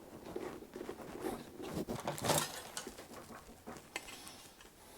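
Faint handling sounds of a rubber gasket being fitted onto the base of a diesel heater: light rubbing and rustling with a few small knocks, the loudest a little past two seconds in.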